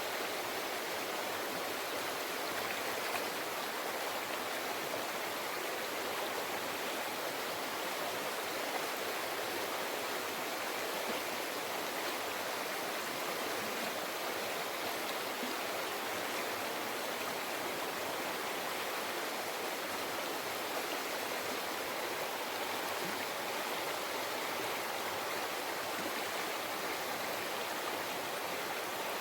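A mountain forest river flowing over rocks: a steady, even rushing and babbling of water.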